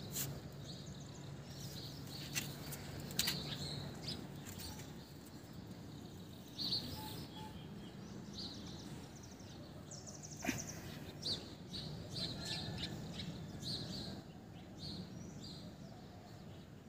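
Small birds chirping now and then over faint background noise, with a few light clicks.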